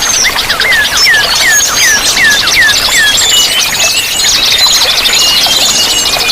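Several songbirds singing at once over a steady rush of running water. For the first three seconds one bird repeats a falling whistled note about three times a second, while others keep up a fast high trill and scattered chirps.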